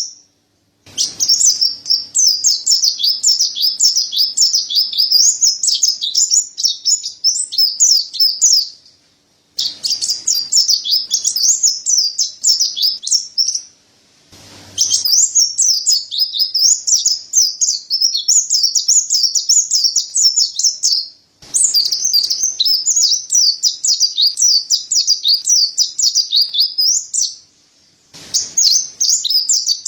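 Mountain white-eye (pleci dada putih, Zosterops montanus) singing a rapid, high-pitched twittering song in long bouts of several seconds, broken by short pauses, five bouts in all.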